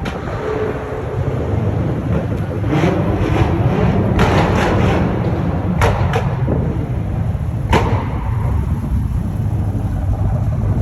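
Loud, steady low rumble of a car engine, broken by a handful of sharp cracks between about four and eight seconds in.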